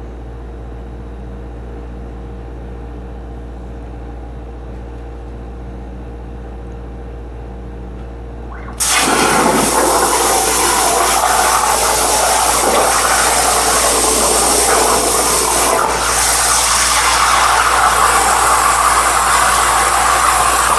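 CNC plasma cutter: a low steady hum, then about nine seconds in the plasma arc starts abruptly and cuts with a loud, even hiss that continues to the end, dipping briefly once partway through.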